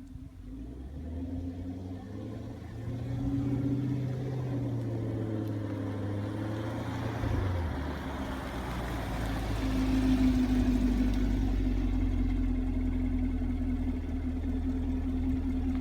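Stock 2017 Chevrolet Camaro 2SS's 6.2-litre V8 running through its factory exhaust. The note rises about two seconds in, drops back about seven and a half seconds in, then grows louder again near ten seconds.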